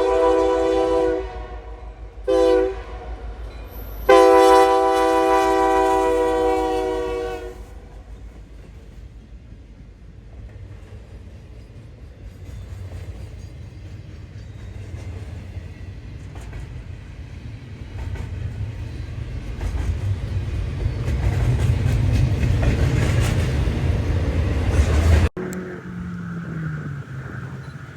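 A locomotive air horn sounds a multi-note chord: a long blast ending about a second in, a short blast, then a long blast of about three seconds, the close of a grade-crossing signal. The low rumble of the passing train then grows steadily louder until it cuts off suddenly near the end.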